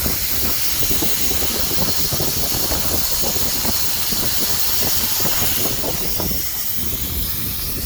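Water spraying onto a condenser coil and splashing, a steady loud hiss, rinsing the acid coil cleaner out of the coil until the runoff comes out as white foam and water.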